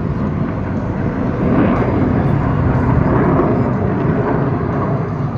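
Jet noise from the Thunderbirds' F-16 fighter jets flying past at low altitude: a loud, continuous rumble that swells about one and a half seconds in.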